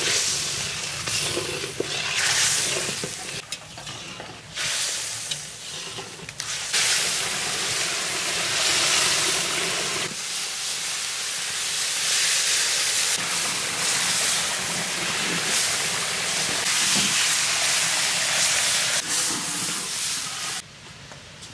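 Spice paste frying in mustard oil in a large iron wok, sizzling and hissing loudly while a metal spatula stirs and scrapes it. The sizzle comes in long loud stretches and drops away suddenly near the end.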